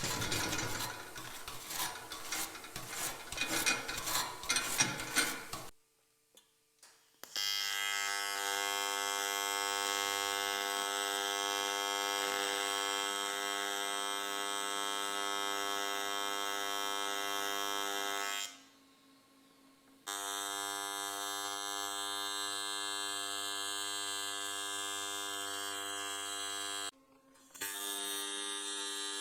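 AC TIG welding arc on thick aluminum, a steady fixed-pitch buzz in three runs that stop abruptly where the arc is broken. Before the first run, about five seconds of irregular scratching and crackling.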